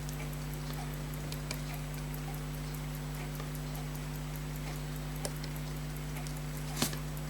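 Steady low electrical hum with a faint, fast, regular ticking behind it, and a few small sharp clicks of hand tools on watch parts, the sharpest near the end.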